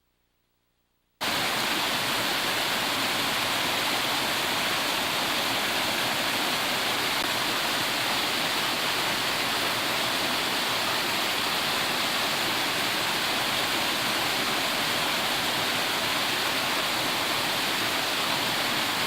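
Waterfall water rushing in a steady, loud, even roar heard up close, cutting in abruptly about a second in after silence.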